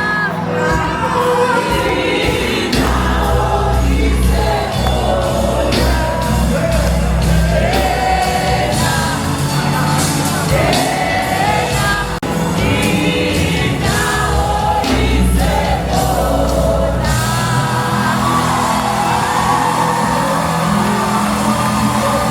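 Live gospel worship music: singers and a choir over a band with heavy bass and drums. The deepest bass drops out about three-quarters of the way through.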